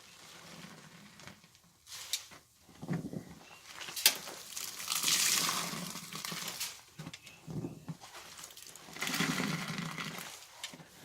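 Wet, soapy laundry being squeezed by hand: squelching with rushes of water pressed out, the strongest about halfway through and again near the end, and a sharp click just before the first.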